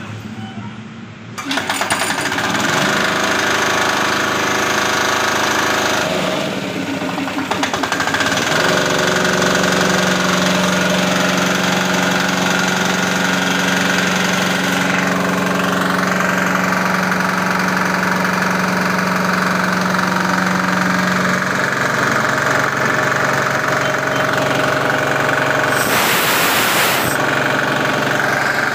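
Single-cylinder 170F air-cooled diesel engine running a belt-driven air compressor with a steady knocking beat; its level picks up sharply about a second and a half in. A brief rushing hiss near the end.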